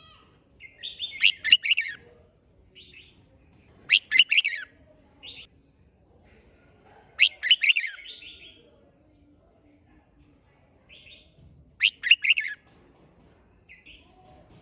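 Red-whiskered bulbul singing: four short, quick, warbling phrases about three to four seconds apart, with softer single notes between them.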